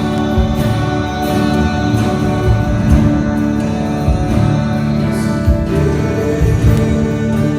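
Live worship band music: guitar over held chords, with a steady drum beat and no clear lyrics.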